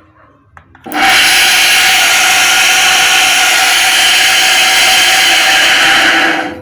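Electric centrifugal water pump motor switched on, running for about five seconds with a loud, harsh, steady noise with a steady tone through it, then cut off near the end. The noise comes from badly worn ball bearings.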